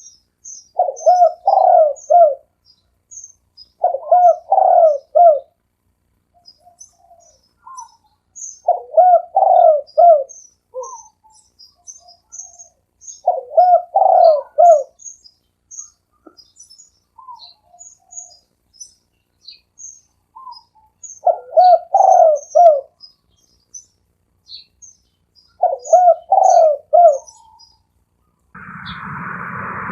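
Spotted dove cooing in short phrases of three or four notes, one phrase every few seconds, about seven in all. Small birds chirp faintly in the background. Near the end a loud rushing noise cuts in.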